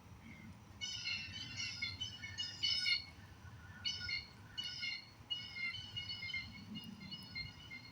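Birds calling: a run of rapid, stacked chattering calls in several bursts, over a faint low background rumble.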